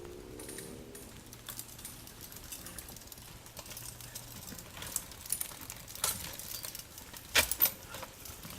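Faint scattered clicks and knocks, a few sharper ones about five to six seconds in and the loudest pair close together near the end.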